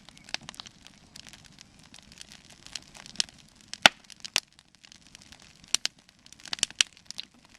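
Cedar campfire crackling and popping, with irregular sharp snaps and one loud pop near the middle.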